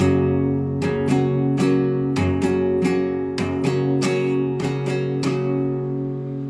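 Classical guitar played solo: plucked arpeggiated notes, about two a second, over a held bass note. The last note about five seconds in is left to ring and fade.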